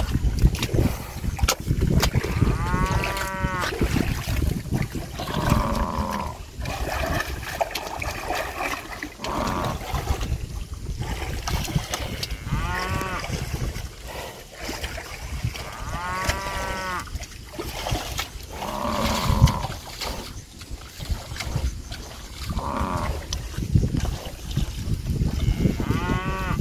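A herd of water buffalo calling again and again: drawn-out, rising-and-falling calls about a second long, a few seconds apart, with shorter calls between them. A steady low rumble runs underneath.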